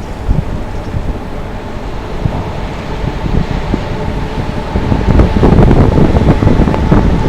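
Wind buffeting the microphone in gusts, a loud, uneven low rumble that grows stronger about five seconds in.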